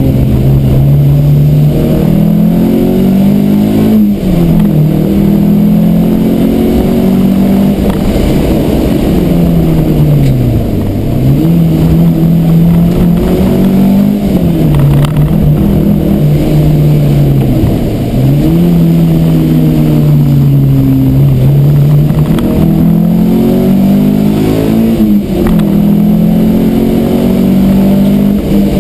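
Peugeot 309 GTI 16's 1.9-litre sixteen-valve four-cylinder engine under hard driving, heard from inside the cabin. The revs climb, drop sharply and climb again several times.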